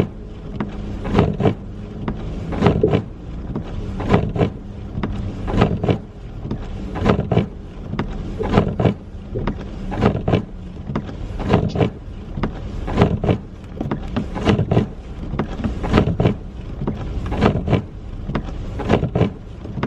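Car driving, heard from inside the cabin: a steady engine and road hum with a loud double knock that repeats about every one and a half seconds.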